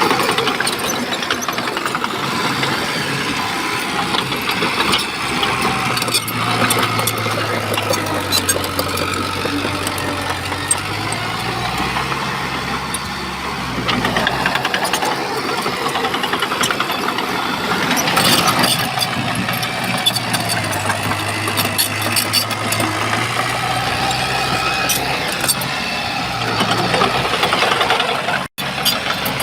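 Shantui bulldozer's diesel engine running, its low note stepping up and down as it works, with frequent clanks and rattles over it. The sound cuts out for a moment near the end.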